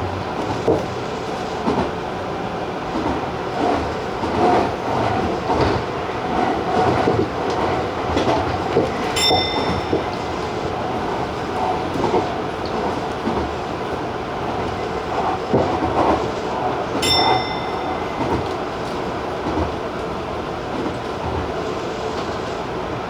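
Tobu TJ Liner electric train running at speed: steady rolling noise with irregular clacks of the wheels over the rails. Two short high beeps sound, about eight seconds apart.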